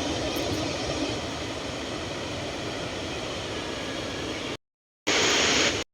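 Steady rush of a waterfall. Near the end it cuts off twice to dead silence, with a short, louder stretch of rushing water between the gaps.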